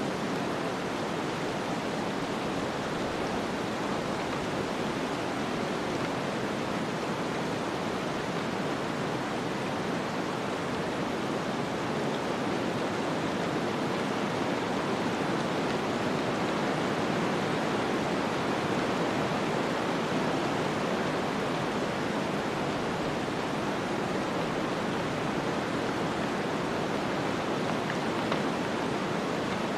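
Snowstorm wind, a steady soft rushing noise with no distinct gusts or clicks, swelling slightly about halfway through.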